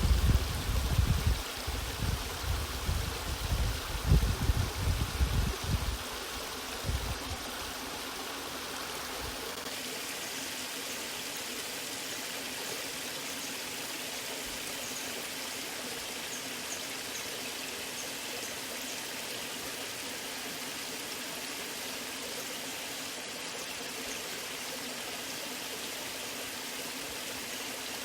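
Waterfall water rushing and splashing in a steady, even wash of noise. Loud, irregular low rumbling sits under it for the first six seconds or so, then stops, leaving a steady rush.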